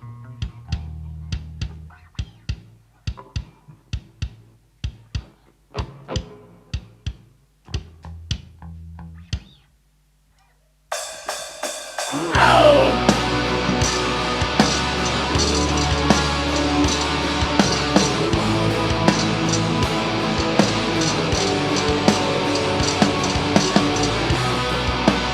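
Live metal band playing: a stop-start passage of sharp drum hits with low bass notes, a brief pause about ten seconds in, then the full band comes in loud and dense with drums and distorted guitars.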